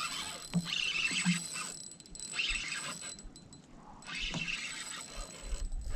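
Fishing reel being cranked in three spells of whirring with short pauses between, retrieving a cast lure.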